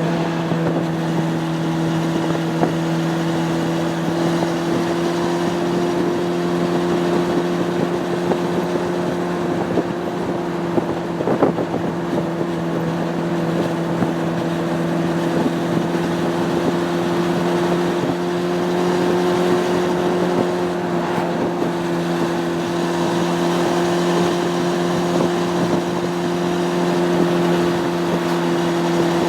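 Honda CB600F Hornet's inline-four engine running at steady cruising revs, its pitch holding nearly constant with a slight rise and fall about two-thirds of the way through, over wind noise on the microphone.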